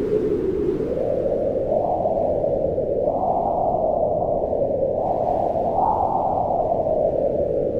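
Wind blowing in gusts: a low rushing noise that swells up in pitch and sinks back every second or two.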